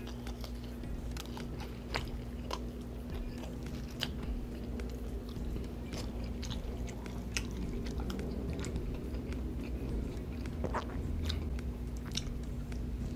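Close-miked chewing and biting of McDonald's french fries and a double McChicken burger: wet mouth sounds with irregular soft crunches and clicks. A faint steady hum runs underneath.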